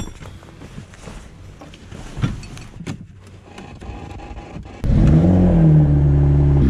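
Porsche 911 GT3 RS flat-six with a titanium exhaust starting up about five seconds in: a short flare of revs that settles into a loud, steady idle. Before it, faint clicks and handling noises inside the car.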